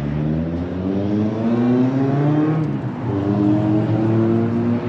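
Car engine accelerating, its pitch rising steadily, then dropping briefly about three seconds in as it shifts up and climbing again.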